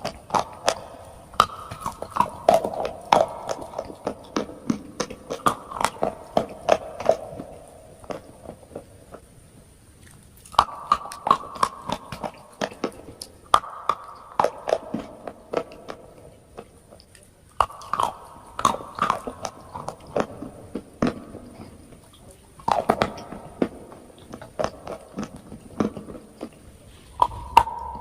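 A person biting and chewing crunchy chalk close to the microphone: several bouts of sharp, dense crunches with brief pauses of a second or two between them.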